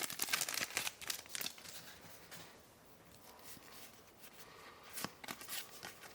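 Foil booster-pack wrapper crinkling and trading cards being handled: scattered crackles and clicks for the first two seconds or so, then a few sharp clicks about five seconds in.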